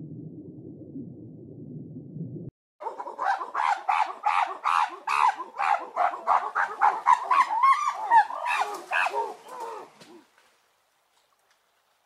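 Long-tailed macaques calling: a loud, rapid run of about eighteen short, harsh calls over some seven seconds, starting about three seconds in. Before it, a low underwater rumble cuts off suddenly.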